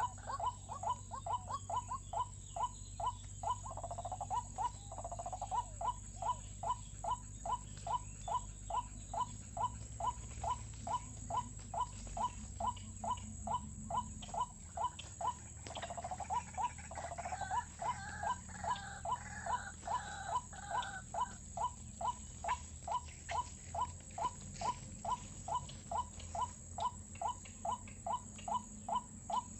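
White-breasted waterhen calling: a steady, even series of short notes, about two a second, with stretches of a higher, more tangled call mixed in about four seconds in and again from about halfway.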